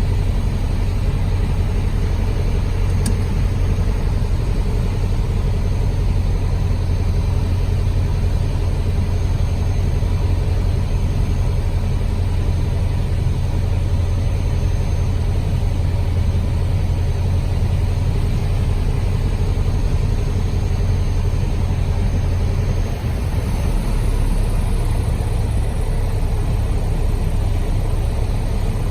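Light aircraft's piston engine and propeller droning steadily, heard from inside the cabin, with a strong low hum; about 23 seconds in, the hum drops and changes as the power setting changes.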